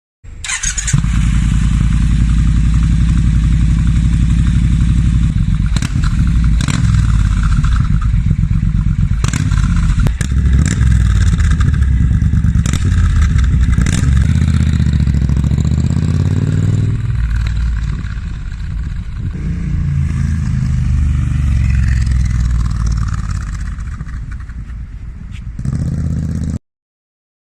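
Triumph T120 parallel-twin engine running loud through a British Customs Shorty Predator exhaust with X-pipe, with several sharp cracks through the middle. The pitch falls and the sound eases about two-thirds of the way in, then picks up again before stopping abruptly near the end.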